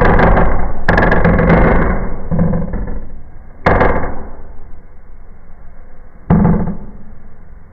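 Small indoor firework going off: a dense run of rapid crackling pops that thins out over the first couple of seconds, then two single sharper bangs, each fading quickly.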